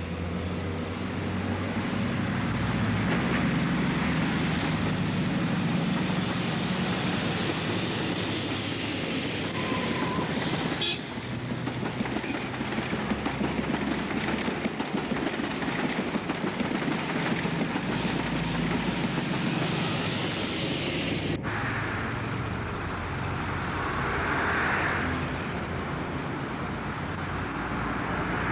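InterCity 125 high-speed train passing with its Paxman Valenta diesel engines running. From about a third of the way in, its coaches roll by with a fast, even clatter over the rail joints. About three-quarters through, the sound cuts off sharply to a quieter rumble.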